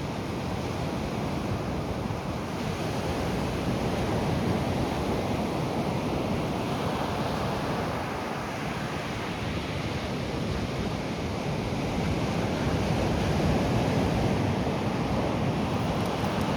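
Atlantic surf breaking and washing on the beach, a steady rush of waves swelling louder about four seconds in and again near the end, with some wind on the microphone.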